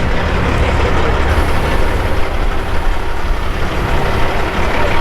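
Steady, loud engine rumble, like a truck idling close by, with a dense noisy din over it.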